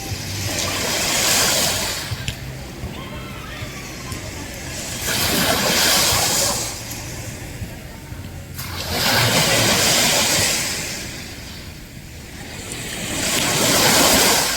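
Ocean waves washing in: four surges, each swelling and fading over a couple of seconds, about four seconds apart, over a steady low rumble.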